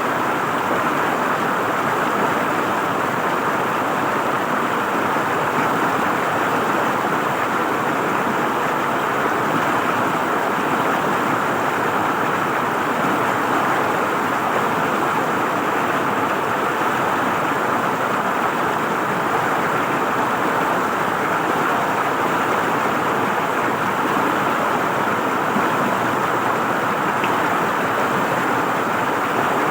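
River water flowing and gurgling in a steady, unbroken rush.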